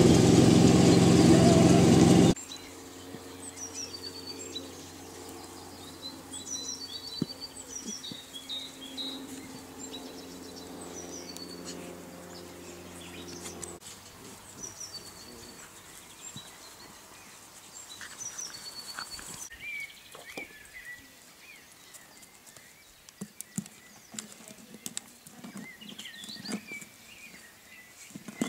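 Small birds chirping and singing in the background, short repeated calls, over a faint low steady hum for the first half. A much louder steady sound cuts off suddenly about two seconds in, and light ticks and taps come near the end.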